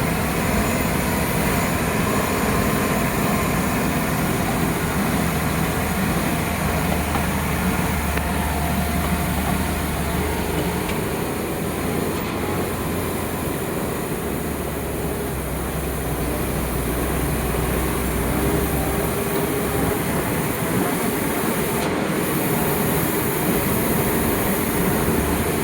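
Heavy truck engine running steadily with a deep low rumble.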